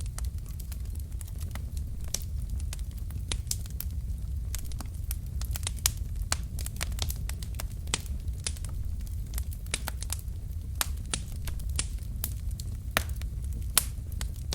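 Wood fire of burning logs in a fireplace crackling, with frequent sharp irregular pops and snaps over a steady low rumble of the flames.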